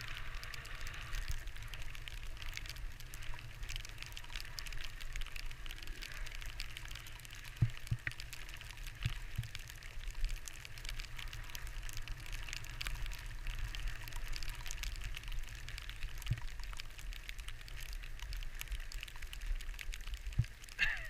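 Skis sliding over snow: a steady hiss, with wind rumbling on the microphone and a few soft knocks.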